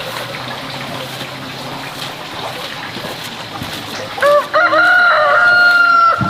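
Rooster crowing once, about four seconds in: a couple of short rising notes, then one long held note, loud over a steady faint hiss.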